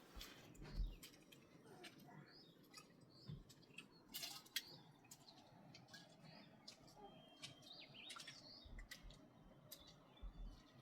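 Near silence with faint, scattered bird chirps and a few small clicks.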